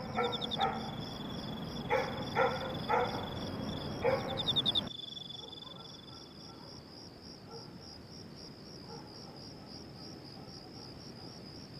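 Crickets chirping in a steady, pulsing high trill. In the first five seconds a few short calls sound over it, then stop.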